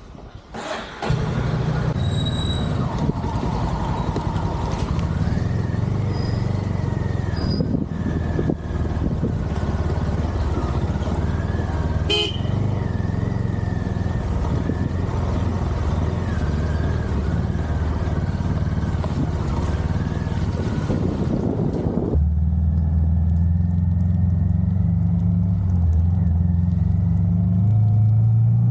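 Honda CB350 H'ness single-cylinder motorcycle engine started about a second in and left idling to warm up, its steady idle note changing about three-quarters of the way through.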